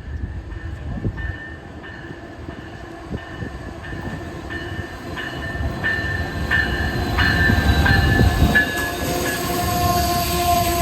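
Amtrak Northeast Regional passenger train with an ALC-42 Charger locomotive approaching, its rumble growing steadily louder. A repeating bell ding about one and a half times a second runs over it.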